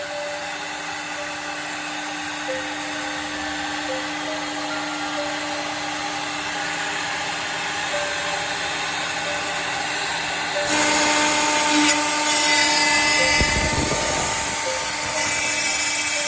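CNC drilling and milling machine running with a steady spindle whine of several fixed tones. About ten seconds in it gets louder and harsher as the cutter machines a window profile.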